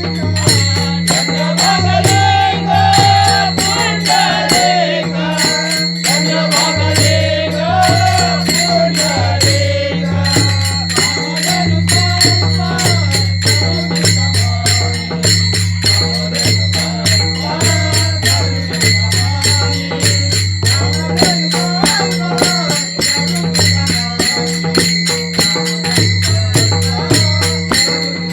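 Marathi abhang devotional music: small hand cymbals strike a fast, even beat over a held low drone, with a melody line rising and falling above it.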